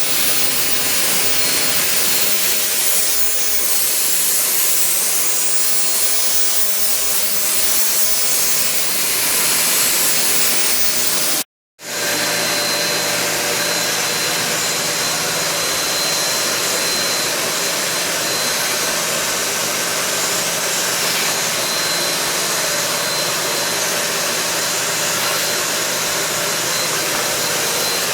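JK-8 portable mini vacuum cleaner with a 1,000-watt motor, running steadily with a loud airy hiss while sucking up dust. It cuts out completely for a split second a little over ten seconds in, then resumes with a steady high whine added to the hiss.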